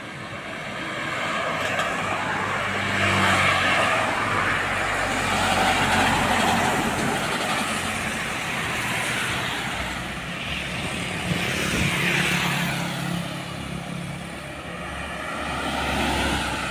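Road traffic passing close by: engine hum and tyre noise from vehicles, heavy trucks among them, swelling and fading several times as they go past.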